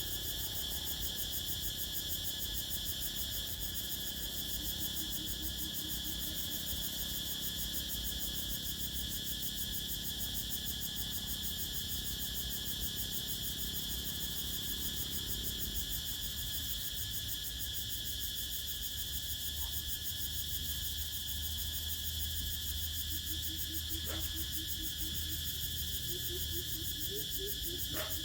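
Steady evening chorus of crickets trilling, with a low rumbling haze beneath. In the last few seconds a frog joins in, croaking in a quick run of low pulses.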